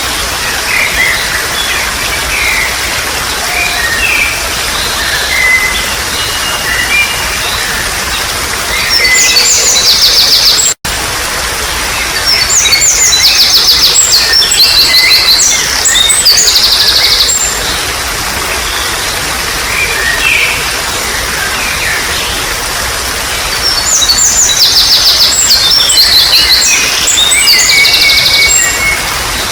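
Trickling water running steadily under wild birds singing and chirping, with three louder spells of fast, rapidly repeated chattering notes. About a third of the way in, the sound cuts out for an instant.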